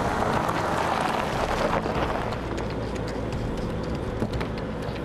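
Mercedes CL 65 AMG's 6-litre V12 biturbo driving at speed, a steady mix of engine and road noise that slowly fades.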